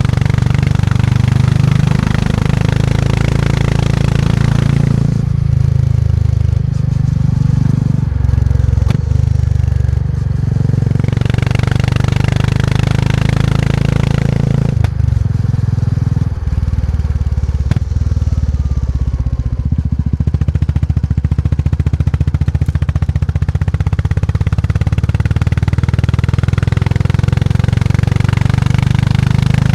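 Motorcycle engine under way on a ride, its steady low running note easing off for a few seconds twice as the throttle closes and then coming back on. Around the middle the separate firing pulses are plainly audible.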